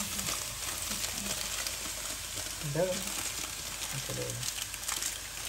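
Chopped onions and vegetables frying in a pan, with a steady sizzle.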